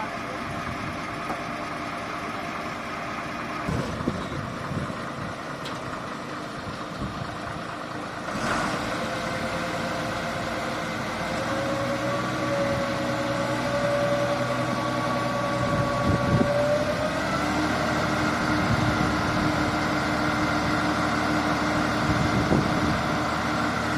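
Heavy vehicle engine running steadily, getting louder about a third of the way in, then revving up with a climbing pitch about two thirds of the way through.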